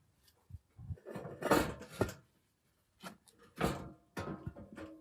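A series of clunks and clatters, the loudest about a second and a half in, as tools and parts are handled.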